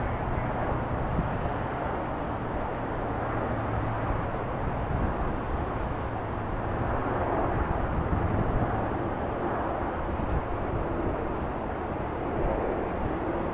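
Steady low rumble of outdoor background noise, with no distinct bangs or other separate events.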